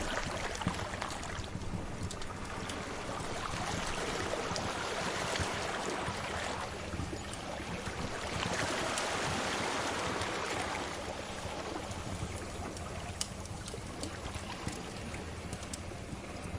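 Sea waves washing in and out, swelling twice with the larger surge about halfway through, over the scattered crackles and pops of a wood fire.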